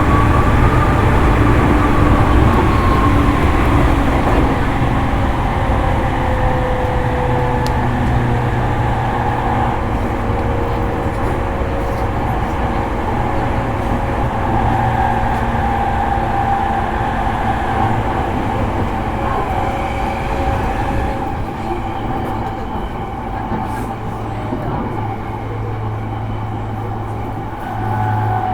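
Running sound of a JR East E231 series electric train, heard inside motor car MoHa E231-1101: a steady rumble of wheels on rail with several held whining tones over it, growing a little quieter in the last few seconds.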